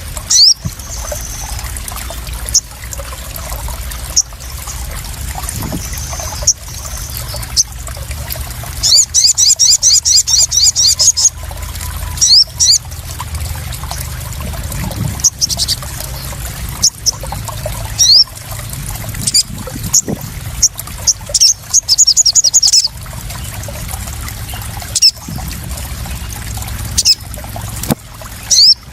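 Water splashing and trickling steadily, with a sogon sunbird's sharp, high chirps scattered throughout and two fast, loud trilled runs, about nine and twenty-one seconds in.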